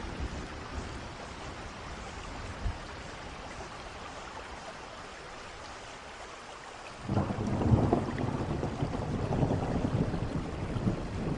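Steady rain falling; a little past halfway, thunder breaks in suddenly and rolls on as a loud, deep rumble.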